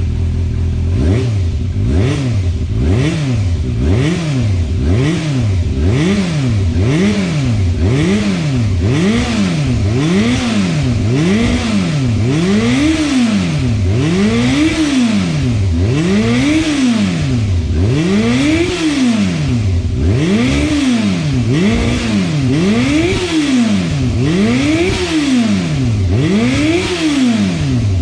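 Yamaha FZ400's 400 cc inline-four engine revved in neutral: the throttle blipped about twenty times, each rev rising and falling back, short quick blips at first and then longer ones reaching higher revs.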